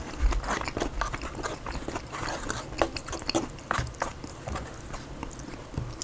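Close-miked eating: wet chewing and biting of a Chipotle keto bowl (lettuce, guacamole, cheese), with irregular clicks and smacks, mixed with a plastic fork scooping and tapping in the bowl.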